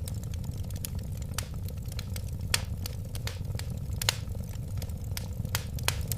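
Wood fire burning with a steady low rumble of flames and irregular crackles and sharp pops.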